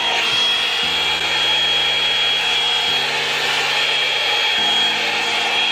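Revlon Salon One-Step hot-air brush dryer running steadily, a rush of air with a thin high motor whine, as it is worked through the hair.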